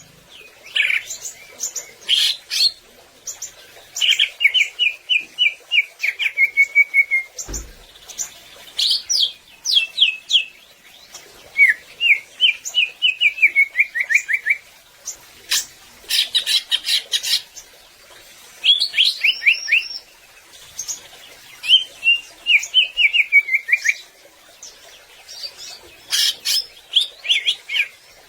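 Greater green leafbird (cucak ijo) singing in full voice: fast chattering phrases of rapid repeated notes, some running down in pitch, with short pauses between phrases. A brief low thump about seven seconds in.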